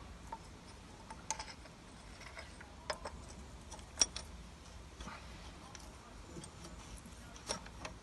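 Scattered light metallic clicks and taps of hand work on the tractor's fuel filter fittings, a handful of sharp ones spread out, the loudest about four seconds in, over a low steady hum.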